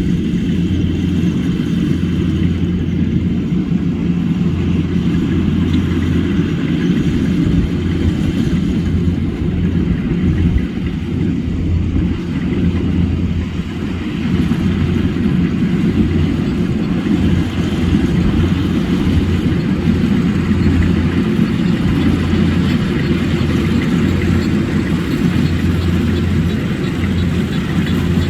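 Rice harvester's engine running steadily, a loud, even low drone that dips slightly about halfway through.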